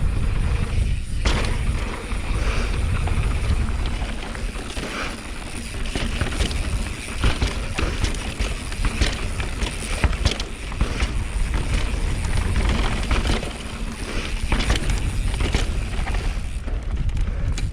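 Mountain bike riding fast down rough dirt singletrack: tyres crunching over dirt and rocks, with frequent sharp rattles and knocks from the bike over bumps. Wind rumbles on the camera microphone throughout.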